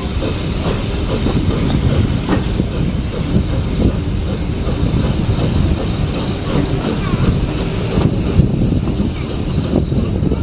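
Carriage of a steam-hauled heritage train running along the line: a steady rumble of wheels on rail, with frequent irregular clicks and knocks.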